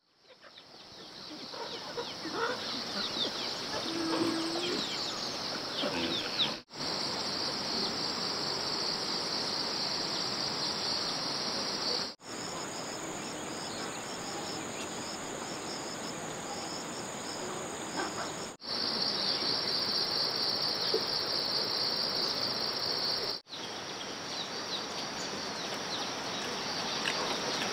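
Chorus of forest insects, crickets or cicadas, making a steady high-pitched buzzing drone, broken by brief dropouts where clips are joined. The sound fades in at the start.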